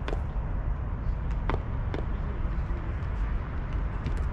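Steady low rumble of outdoor background noise, with a few short sharp knocks: one at the start, two about a second and a half and two seconds in, and another near the end.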